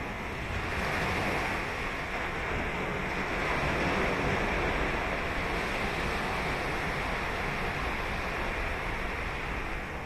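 Ocean surf washing onto a sandy beach: a steady rush of breaking waves that swells about a second in and again around four seconds in.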